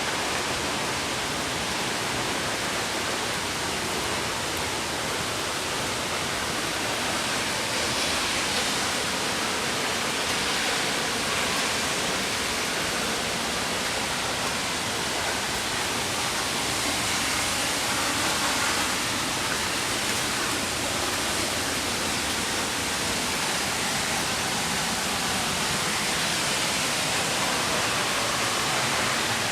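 Mountain creek rushing steadily, a constant even rush of flowing water.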